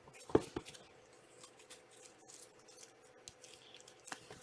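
A trading card pack being opened and handled: two sharp snaps about a third and half a second in, soft rustling after, and another snap near the end.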